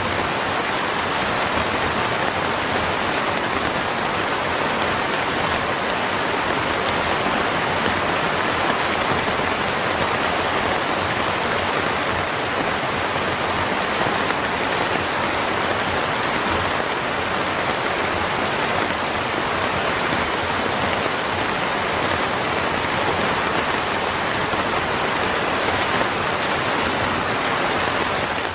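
Steady rain falling, an even, unbroken hiss with no pauses.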